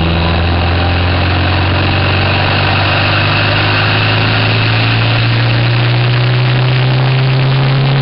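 2005 Subaru WRX's turbocharged flat-four engine, fitted with an IHI VF39 turbo, heard from inside the engine bay. It runs at steady, held revs, its pitch creeping slowly upward.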